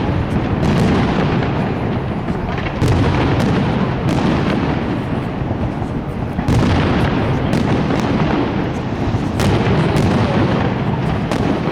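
Fireworks display: aerial shells bursting almost without pause, making a constant heavy rumble of overlapping booms. Sharper cracks stand out every few seconds.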